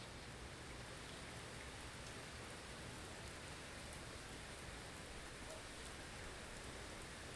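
Steady hiss of a blizzard: wind-driven snow, with faint scattered ticks.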